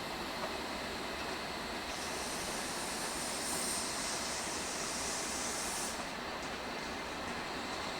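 Train running along the track in a station, a steady noise, with a high hiss that starts about two seconds in and stops about six seconds in.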